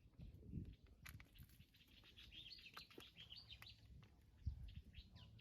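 Faint bird chirps: a quick twittering run of high notes in the middle, more near the end, with one low thump about four and a half seconds in.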